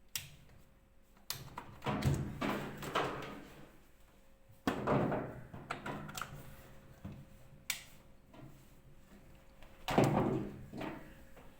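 Irregular knocks, thuds and rattles from handling the LG washer dryer, in a string of short bursts, the loudest about five seconds in and about ten seconds in.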